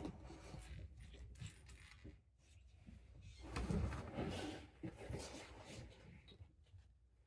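Small plastic Lego pieces clicking and rattling as they are handled, with a louder clatter about four seconds in.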